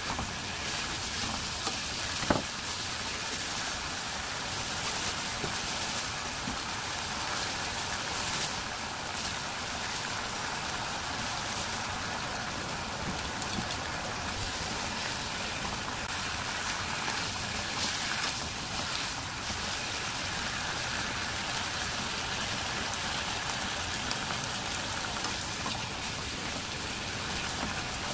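Beef, onion and bok choy stir-frying in a hot pan: a steady sizzling hiss, with a sharp click about two seconds in.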